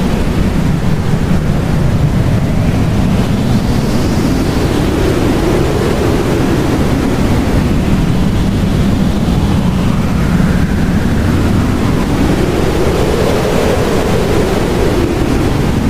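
Blizzard wind blowing hard and steadily, with a deep rumble underneath and gusts that swell and fade, rising and falling in pitch every few seconds.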